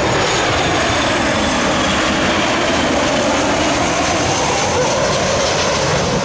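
Airliner's jet engines as the plane passes low overhead on its landing approach, a loud steady rush with a faint, slowly sliding hum.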